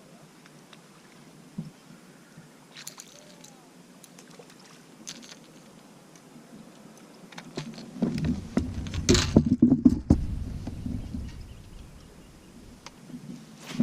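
Handling noises on a kayak on the water: scattered light clicks and knocks, then a louder stretch of low rumbling and clattering from about eight to eleven seconds in.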